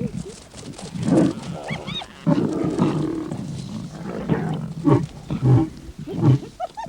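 Lions growling and snarling over a kill, in repeated loud bursts. Hyenas crowd them, and their short, high, rising-and-falling cries cut in about two seconds in.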